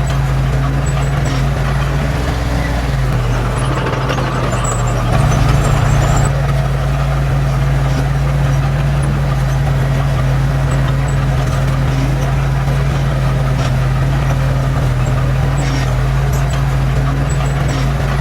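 Heavy earthmoving machine's diesel engine running steadily, swelling louder for a moment about five seconds in.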